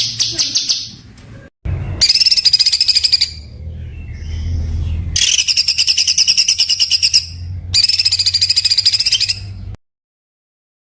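A songbird singing harsh, very rapid rattling trills, the rough, tightly packed 'tembakan' volley song, in four bursts of one to two seconds each with short pauses between. The song cuts to complete silence for about the last second.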